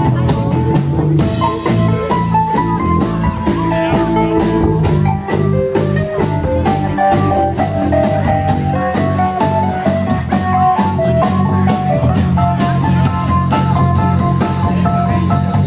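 Live band playing blues-rock with electric guitar lead lines over a steady drum-kit beat.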